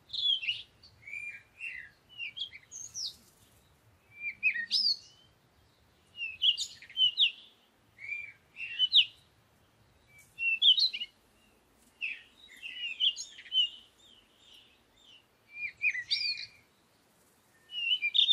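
Songbird chirping: short, quick whistled phrases sweeping up and down, repeating in bursts every second or two with brief pauses between.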